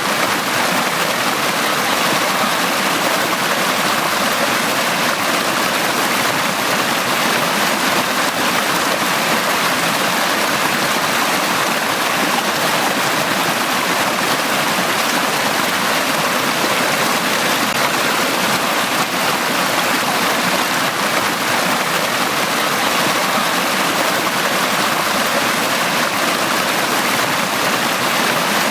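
Forest brook running steadily, water splashing and rushing over rocks.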